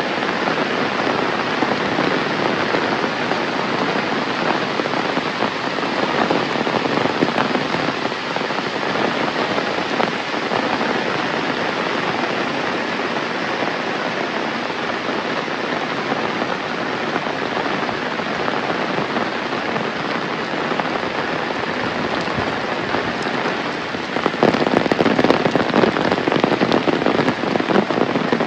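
Heavy rain falling in a steady, even rush, growing louder and denser near the end.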